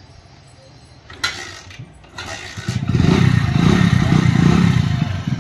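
Hero Splendor motorcycle's single-cylinder four-stroke engine being kick-started: a click and a kick stroke, then the engine catches about two and a half seconds in and runs loudly.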